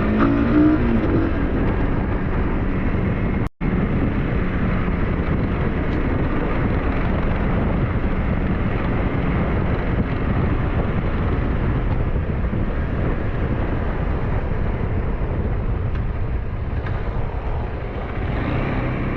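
SYM NH T 200 motorcycle engine running on the move, mixed with wind rushing over the microphone. The sound cuts out for an instant about three and a half seconds in.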